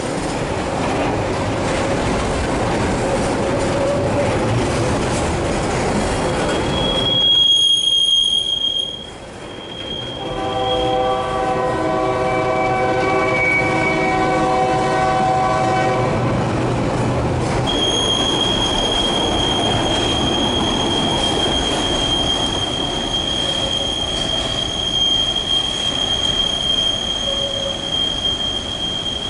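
Freight train running, its steel wheels squealing on a curve with a high steady tone about seven seconds in and again from about eighteen seconds on. In between, the locomotive's multi-note horn sounds for about five seconds.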